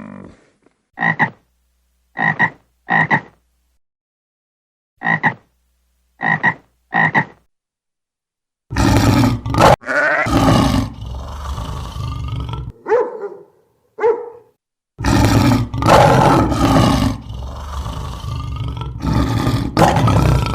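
Animal calls: six short, clipped calls in two groups of three with silence between, then, about nine seconds in, a loud, dense stretch of noisy calling.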